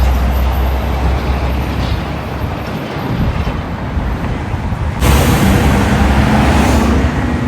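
Semi trucks driving past: diesel engine rumble and tyre noise that fades, then jumps abruptly louder about five seconds in as another truck comes through with a steady engine drone.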